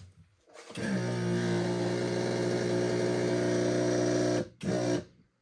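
Outboard power trim/tilt motor running steadily to lower the motor, a level electric hum that stops after about four seconds, then a short second burst just after.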